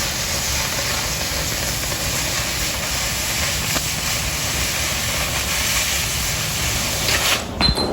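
Oxy-fuel cutting torch hissing steadily as it cuts through 1/4 inch steel plate. The hiss cuts off about seven and a half seconds in, followed by a couple of faint clicks.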